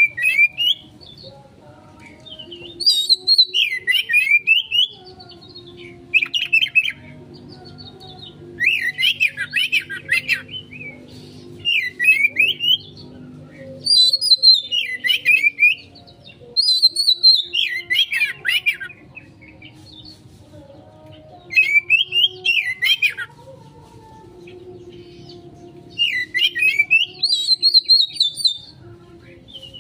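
Oriental magpie-robin (kacer) singing in agitated 'konslet' mode, the frantic song used as a lure to set other kacer singing. It comes in about nine bursts of fast, varied phrases, each a second or two long, with short pauses between.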